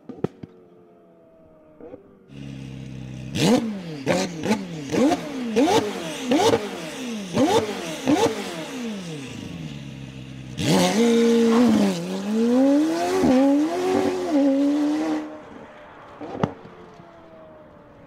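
McLaren Senna's twin-turbo V8 through a Novitec sport exhaust, revved while stationary. About two seconds in it comes up to idle. Then it is blipped about seven times in quick succession, each rev rising and falling sharply with cracks from the exhaust. It is then held at higher revs, wavering, for about four seconds before dropping back, with a few pops near the end.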